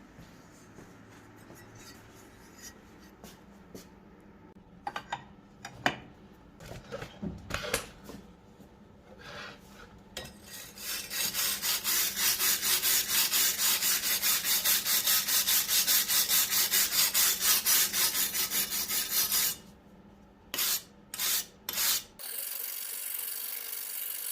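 Steel wire brush scrubbed back and forth over a rusty butcher's axe head, about four strokes a second, scouring off coarse rust. Before that come a few scattered knocks and scrapes.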